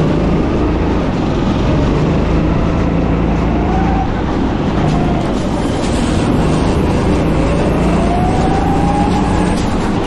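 Go-kart engine running under load, its pitch rising and falling as the kart speeds up and slows, over a loud steady rush of noise.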